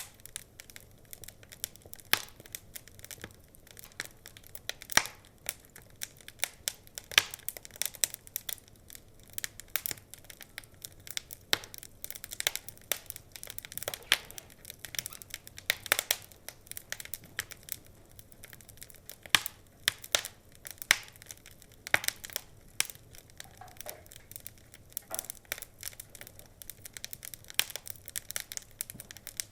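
Wood fire crackling, with irregular sharp pops and snaps, a few of them much louder than the rest.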